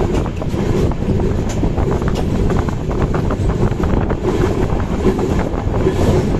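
LHB sleeper coach running at speed, heard at its open doorway: a steady loud rumble and rattle of wheels on the rails, with wind rushing past the door. A few sharper rail clacks come through about 1 to 2½ seconds in.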